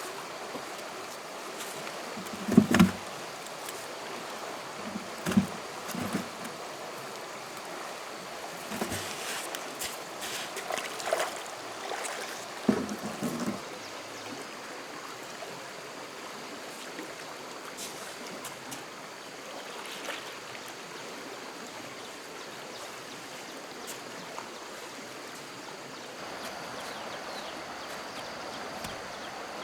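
Flowing stream water running steadily, with several short thumps in the first half.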